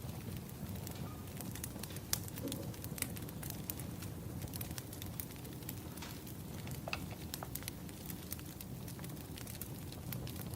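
Firewood burning: a steady low rumble with many irregular sharp crackles and pops.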